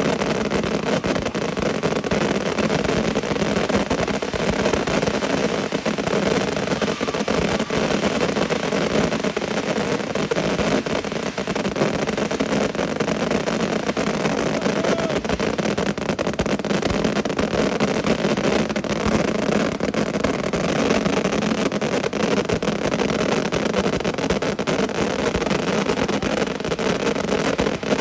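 Many firework cake batteries firing together, their shots so rapid that they merge into one continuous, steady barrage of bangs and crackle.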